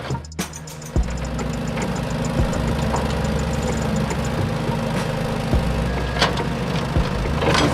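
Tractor-type engine idling with a steady low chug. The sound briefly drops out near the start and comes back with a knock about a second in.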